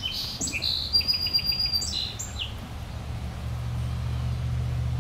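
Small birds chirping outdoors, with a quick run of chirps about a second in, dying away about halfway through. A low steady rumble grows louder in the second half.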